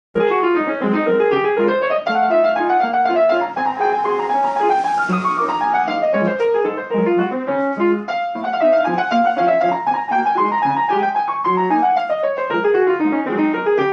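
Piano playing a flowing piece of rising and falling arpeggiated runs over sustained low notes; it starts suddenly at the very beginning.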